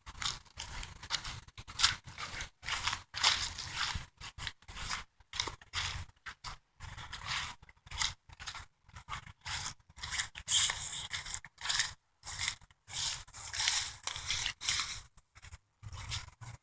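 Irregular scratchy rustling and scraping noise in short bursts, with brief gaps of near silence between them.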